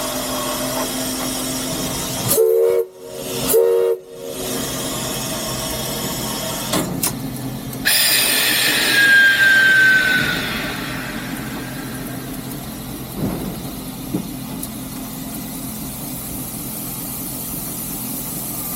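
Steam locomotive whistle giving two short blasts a few seconds in, over a steady hiss of steam in the cab. About eight seconds in, a louder rush of steam starts and fades over a couple of seconds.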